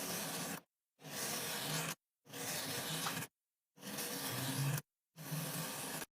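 Kinetic sand being handled, a soft gritty rustle in short pieces of about a second each, cut apart by dead silence. It stops just after six seconds.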